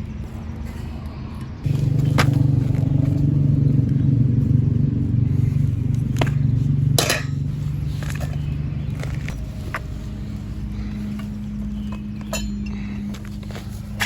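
A low, steady mechanical rumble that jumps louder about two seconds in and eases off again after about five seconds, with scattered light clinks.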